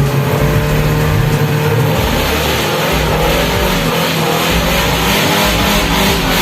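Off-road 4x4 engine revving hard under load, its pitch rising and falling as the throttle is worked.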